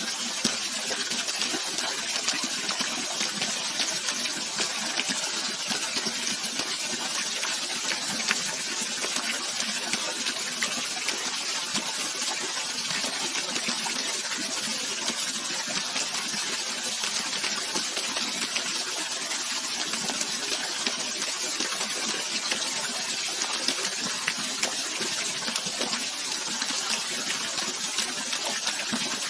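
Running water rushing steadily, an even hiss strongest in the high range with little bass, never pausing or changing.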